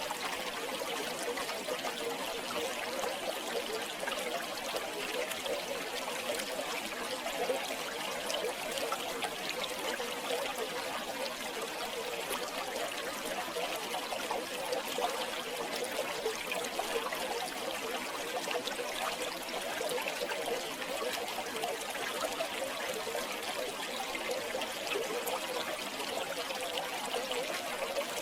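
River water flowing and babbling steadily over stones.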